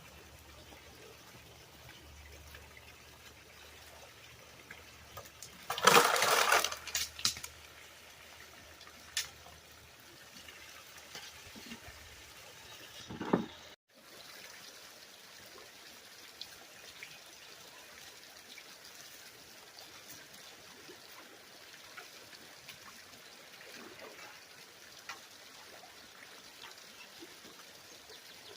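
Water running and trickling steadily, with a loud splash about six seconds in and a shorter splash about thirteen seconds in.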